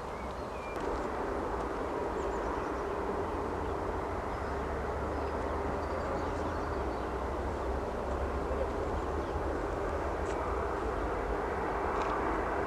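Airliner engine noise at an airport, a steady hum of engine noise that slowly grows louder.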